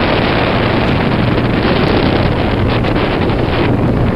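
Wind buffeting the microphone over the steady hum of a tour boat's engine and rushing water, with the boat under way.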